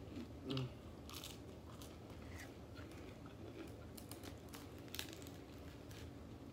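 Faint crunching and chewing of crispy fried chicken, with scattered short crackles as the meat is pulled apart.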